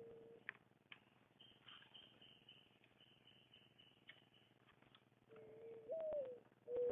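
A dove cooing in low, soft notes. Near the end a longer coo rises and then falls, and further coos follow. Earlier, a small bird gives a quick, high trill of about five notes a second that lasts around three seconds.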